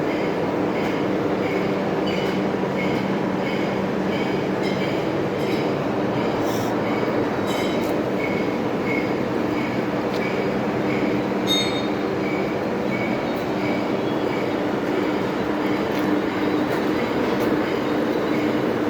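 Metal-turning lathe running steadily, a continuous machine hum and grinding noise with a light regular tick somewhat under twice a second.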